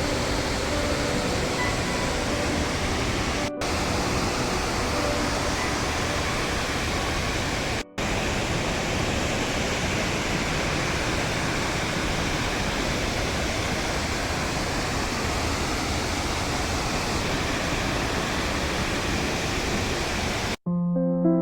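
Waterfall: a steady, loud rush of falling water that briefly drops out twice, about 3.5 and 8 seconds in. Piano music takes over just before the end.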